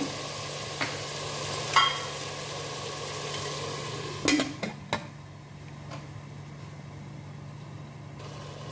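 Mutton and onions sizzling in an open aluminium pressure cooker while a wooden spatula stirs them, with a couple of knocks against the pot. About four seconds in, the pressure-cooker lid clanks into place, and the sizzle turns quieter and muffled under it.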